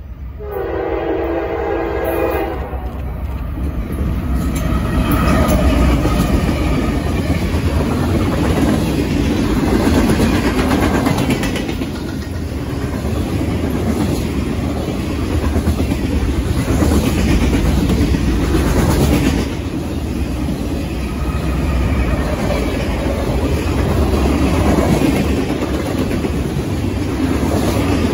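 Freight train horn sounds once, a multi-note blast of about two seconds, just after the start. Then the freight train passes close by with a steady rumble and the clatter of its wheels on the rails as its cars roll past.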